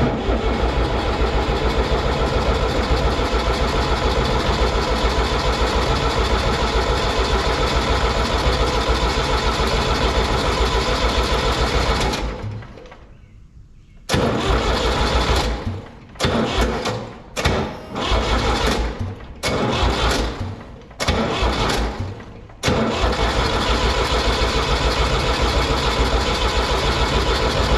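An engine being cranked over by its electric starter without firing. First comes one long crank of about twelve seconds, then a string of short cranks with pauses between them, then another long crank near the end. The cranking is running the battery down below 12 volts to test it under load.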